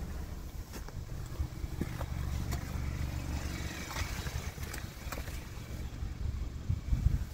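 Steady low hum of a Hyundai Sonata sedan idling, with scattered light clicks and knocks from handling the camera. Near the end, irregular low thumps of wind buffeting the microphone.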